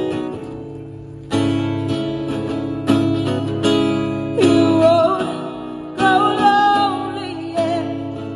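Acoustic guitar strummed in chords, struck every second or two. From about four seconds in, a voice sings a wordless melody over it.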